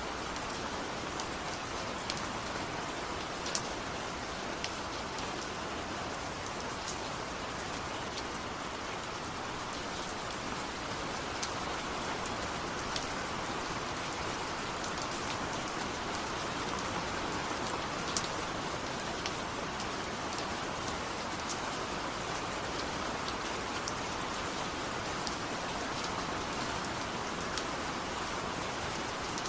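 Steady rain with individual drops pattering on a surface, scattered sharp drop ticks over an even hiss.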